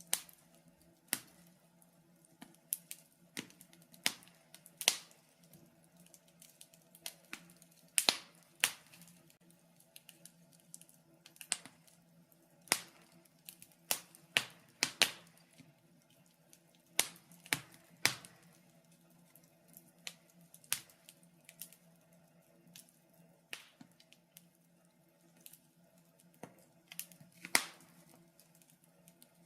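Wood fire crackling in a fireplace: irregular sharp pops and snaps, about one or two a second with some louder ones, over a faint steady low hum.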